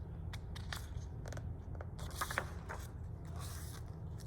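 Paper rustling and crinkling from a picture book's pages being handled and turned, a string of short scratchy sounds over a steady low hum.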